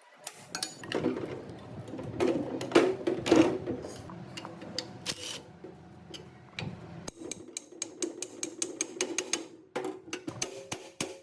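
Rapid mechanical clicks and knocks, heaviest a couple of seconds in and turning into quick, even ticking in the second half, over a steady hum.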